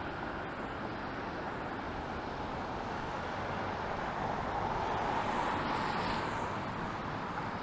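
City street traffic on wet pavement, a steady hiss of tyres and engines, with one vehicle swelling past about five to six seconds in.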